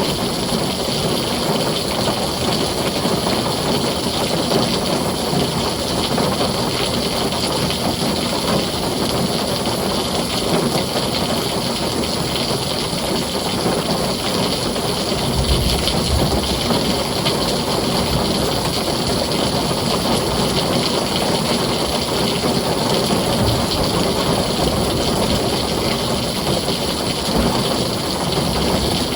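Heavy rain falling steadily on a tin roof, a dense, even hiss. A brief low rumble comes about halfway through.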